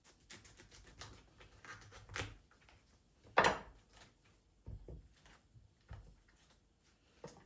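Objects being handled: a series of light knocks and clicks, with one louder, sharper knock about three and a half seconds in.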